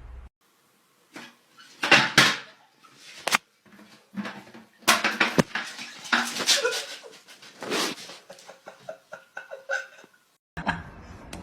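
A pet animal calling again and again in short and longer pitched cries, with a few sharp knocks among them.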